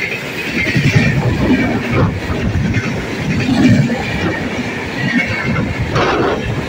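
MEMU electric multiple-unit train running along the line, its wheels and coach making a steady loud rumble and rattle with a few sharper knocks.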